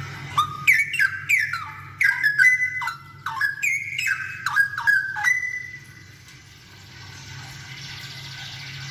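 Straw-headed bulbul singing a loud run of rich, liquid whistled notes, many sliding down in pitch, for about five seconds before falling quiet. A steady low hum runs underneath.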